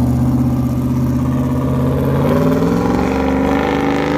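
LS V8 engine in a Chevrolet Vega driving off, its note rising steadily through the second half.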